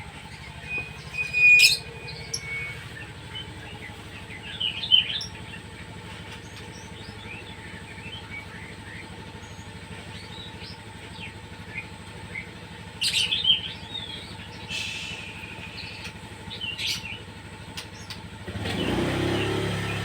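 Pet birds chirping, many short high chirps with a few louder calls, over a steady low hum. A louder low rumble rises near the end.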